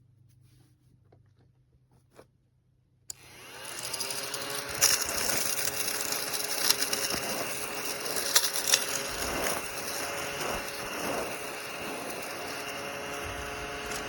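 Mini desktop vacuum cleaner switched on with a click about three seconds in. Its motor spins up within about a second to a steady whine, with scattered sharp clicks.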